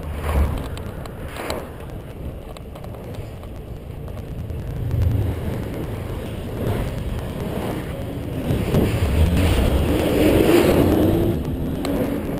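Road noise while cycling: wind rumbling on an action camera's microphone, with a motor vehicle passing, loudest about ten seconds in.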